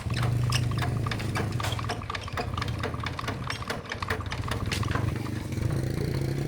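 A tractor engine running steadily at idle, with a low, even hum and many quick ticks over it.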